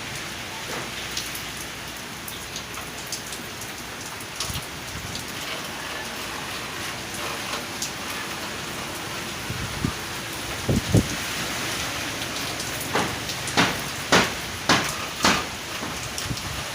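Steady heavy rain from a tropical storm, with a few louder sharp hits standing out: two about eleven seconds in, then five in quick succession near the end.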